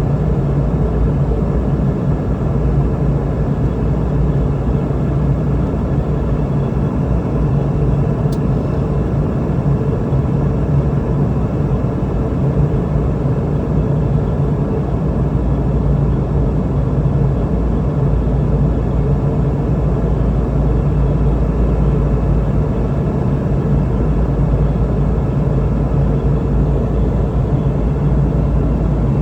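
Steady cabin noise inside a Boeing 717-200 airliner in flight: the even drone of its two rear-mounted turbofan engines and the airflow, with a low hum.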